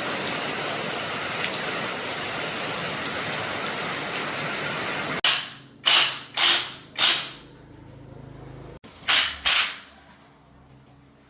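Heavy rain beating down steadily for about five seconds, cut off abruptly. Then four sharp, loud bangs about half a second apart, and after a short pause two more, like hard strikes on metal.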